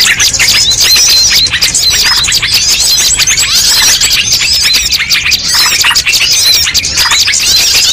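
Dense chorus of many small birds chirping, trilling and twittering over one another, a mixed bird-lure recording of many species at once.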